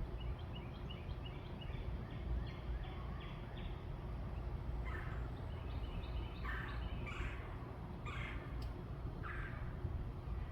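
Backyard birds calling: a quick run of high chirps, then five harsh, scratchy calls about a second apart, over a steady low rumble.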